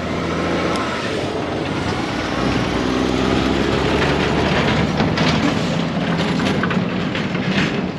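A motor vehicle's engine running close by: a steady low hum with road noise that swells in within the first half second and holds.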